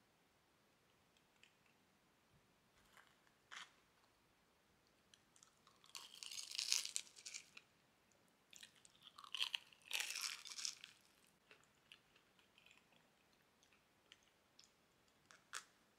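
Crisp, fried crust of a Monte Cristo sandwich crunching as it is bitten and chewed, in two bouts about six and ten seconds in, with a few small crackles between.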